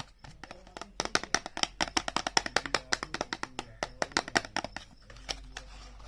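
Rapid tapping and clicking on packaging, five or more taps a second, thickest in the middle and thinning out near the end.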